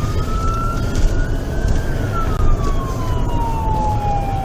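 Police car siren wailing, one slow rise and fall in pitch, over the low rumble of the squad car's engine and tyres at speed.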